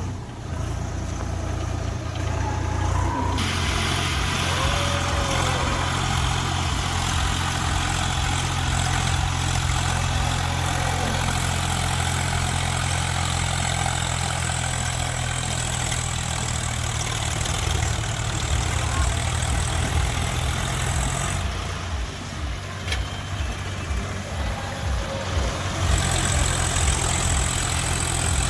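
Swaraj tractor's diesel engine running with a steady pulsing throb. About three seconds in it picks up and runs hard, eases for a few seconds late on, then picks up again.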